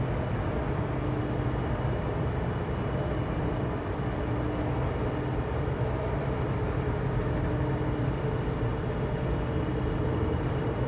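Diesel locomotive of an Amtrak Capitol Corridor train running with a steady, even low hum.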